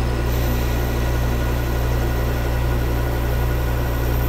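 Metal lathe running with a steady low motor hum during a parting cut with a high-speed-steel parting blade.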